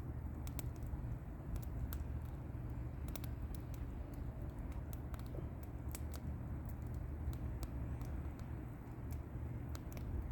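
Wood bonfire burning, with irregular sharp crackles and pops over a steady low rumble.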